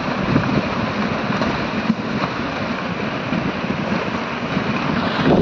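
Mountain stream in flash flood, its torrent of muddy water, debris and stones making a steady rushing noise.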